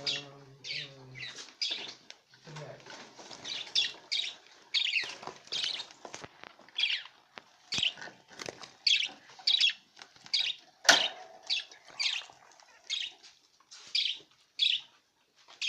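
Pet budgerigars giving a run of short, sharp chirps, about one or two a second. A single sharp click comes about eleven seconds in.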